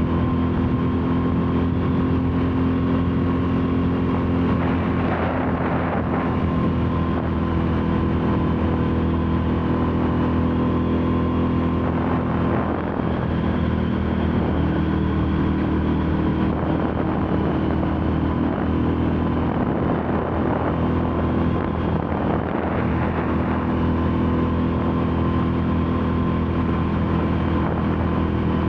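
Royal Enfield Classic 350's air-cooled single-cylinder engine running at a steady cruising speed on the move, with a few brief swells of rushing wind noise.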